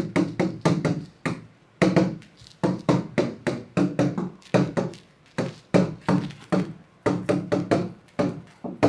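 Handwriting: a pen making quick strokes on a hard writing surface, a steady run of short taps and scratches about two to three a second.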